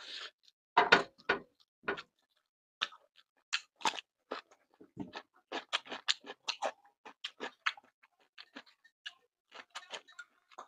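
Someone chewing and eating fried tofu with rice close to the microphone: irregular mouth clicks and smacks, a few a second, with a louder smack about a second in.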